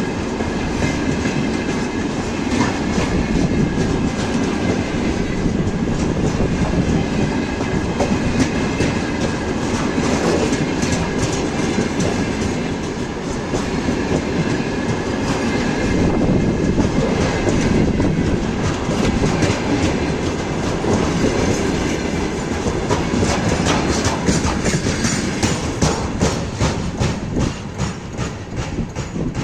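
Railway wagons rolling past on the track: a steady rumble with a rhythmic clickety-clack of wheels crossing rail joints. The clicks come thicker near the end as the sound begins to fall away.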